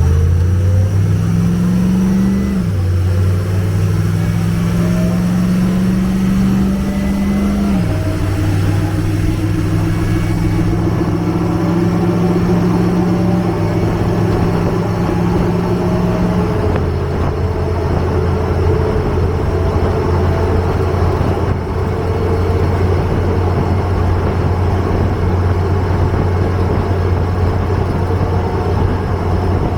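M1042 HMMWV's diesel V8 idling steadily while warming up. Its note shifts in small steps a few times.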